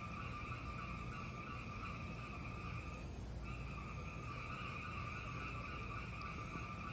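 Fireplace fire giving a steady hissing rush with no distinct crackles or pops. The hiss thins out briefly about three seconds in, then comes back.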